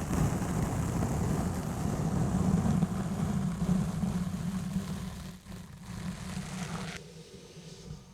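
Exfoliation gloves rubbing and scrubbing on a foam microphone cover: a dense, low, rumbling scrub that eases off about five seconds in and dies down near the end.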